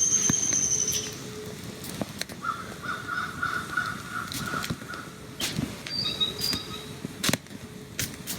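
Wild birds calling in woodland: a high held note that fades out about a second in, then a fast pulsed trill lasting a couple of seconds, then short high chirps. Scattered sharp clicks run underneath.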